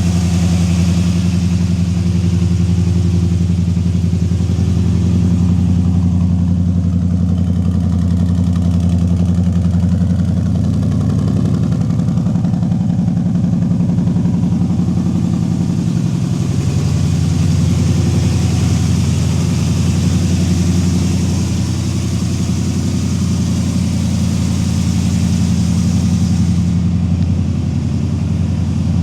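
The 383 stroker V8 of a 1968 Chevrolet C10 pickup idling steadily, its exhaust note holding an even pitch with no revs.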